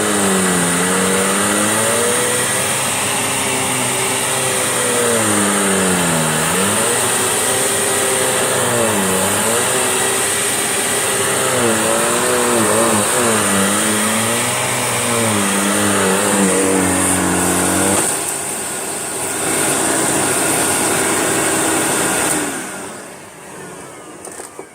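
Vacuum cleaner running over a rug in back-and-forth strokes, its motor pitch dipping and recovering every few seconds as the load changes, over a steady high whine. Near the end it is switched off and winds down.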